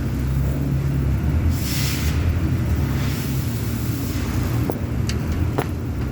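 An engine running steadily with a low hum, with a short hiss about one and a half seconds in and a few sharp clicks near the end.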